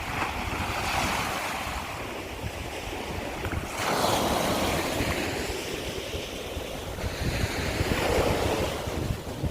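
Small sea waves breaking and washing over a shore of broken scallop shells, in three swells about 1, 4 and 8 seconds in. Wind rumbles on the microphone throughout.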